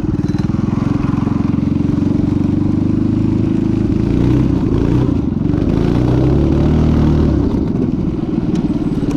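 Vintage minibike's small engine running under throttle, its pitch rising and falling as it is ridden, then easing off about seven and a half seconds in.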